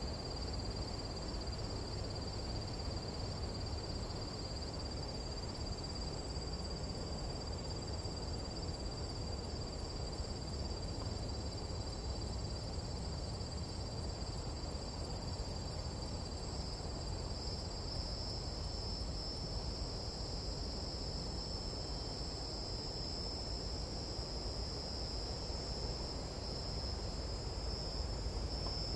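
Nighttime jungle insect chorus: crickets or similar insects trilling steadily in two high, unbroken bands, over a steady low rumble.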